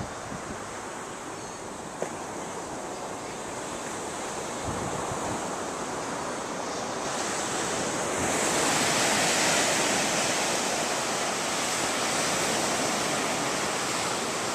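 Ocean surf washing on the beach, swelling louder about halfway through as a wave breaks and rushes in.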